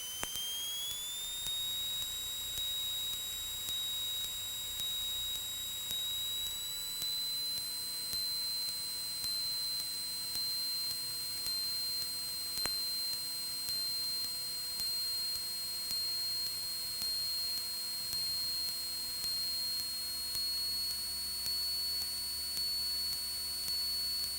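Steady high-pitched electrical whine in a Cessna 172's cockpit intercom audio, creeping slowly upward in pitch, with a faint low hum beneath it.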